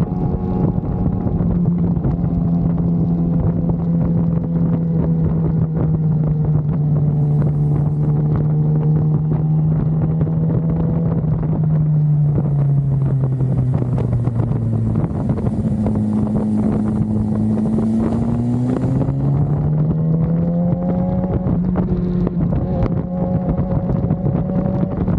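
BMW S1000RR's inline-four engine running at road speed, with wind rushing over the microphone. The engine note sinks slowly, dips lower about twelve seconds in, then climbs back up in steps around fifteen and twenty seconds in.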